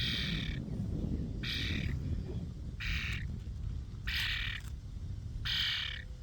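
A young bird perched close to the microphone repeating a harsh, squawking begging call, five times about once every second and a half, over a low rumble of wind and handling noise.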